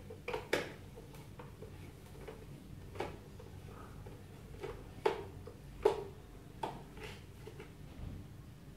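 Scattered sharp clicks and light knocks, about a dozen spread irregularly, of a screwdriver and the plastic parts of a UPS case being handled.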